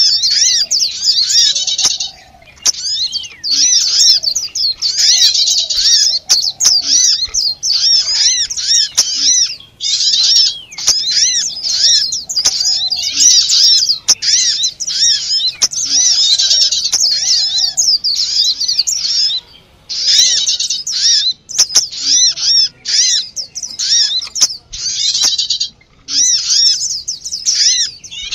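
Small birds chirping in a fast, agitated chatter: a bird-trapping lure call of excited, distressed small songbirds. Dense runs of quick, high chirps go on for several seconds at a time, with brief breaks.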